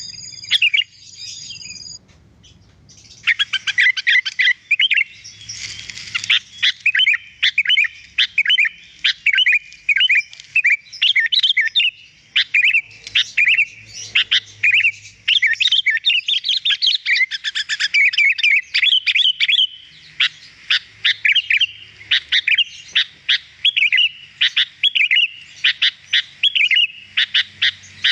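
Sooty-headed bulbul (kutilang) song: a dense run of rapid chirping, twittering notes that starts after a short held-tone phrase and a brief pause near the start, then carries on with barely a break.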